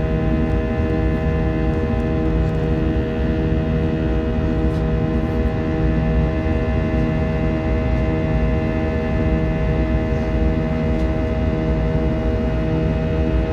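Jet airliner engines heard from inside the passenger cabin: a steady loud drone carrying several steady whining tones, with a slow, regular pulsing in the low hum.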